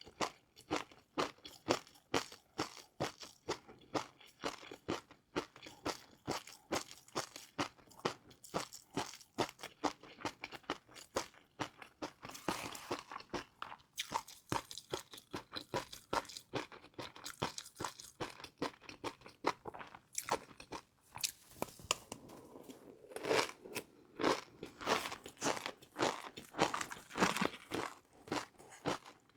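Close-up eating sounds of a person chewing crispy fried noodles: a continuous run of sharp crunches, a few each second. The crunching gets denser and louder about halfway through and again in the last few seconds.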